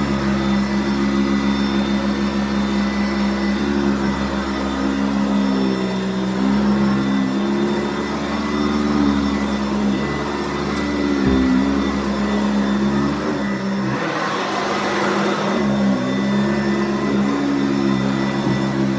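Sanitaire SC688 upright vacuum cleaner running and vacuuming, a steady motor hum whose pitch wavers now and then. About fourteen seconds in, an airy rush of suction noise swells for about two seconds.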